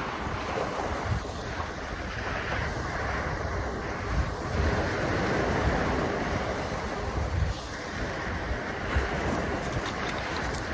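Wind buffeting the microphone in low gusts over a steady rush of water, with a few faint clicks near the end.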